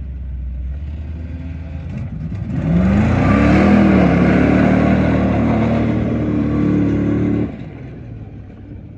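Mud bog truck idling low, then launching about two and a half seconds in: the engine revs up hard and runs at full throttle for about five seconds while the tyres throw mud, then drops off abruptly near the end as the run finishes.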